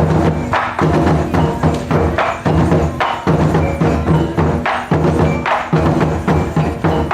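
Japanese taiko drums beaten in a fast, driving rhythm, with sharp strikes and low booming drum tones.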